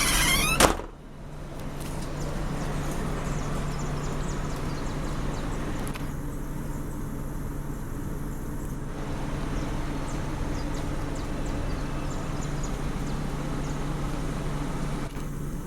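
Scania K310 bus's diesel engine idling steadily, a low even hum.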